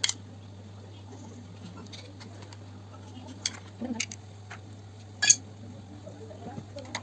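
Slime being mixed and squished by hand: scattered sticky clicks and squelches, the loudest about five seconds in, over a steady low hum.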